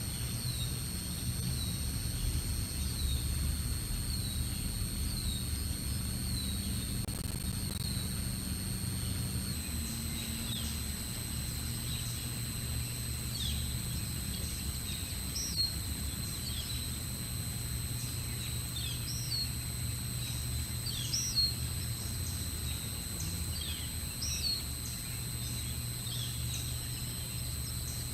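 Small songbirds calling repeatedly: short down-slurred chirps about once a second, becoming more varied later. Behind them run a steady high electronic whine and a low rumble of background noise.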